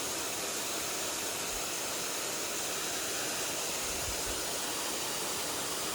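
Mountain stream water rushing over rocks, a steady even hiss. Two faint low bumps come about a second and a half in and again about four seconds in.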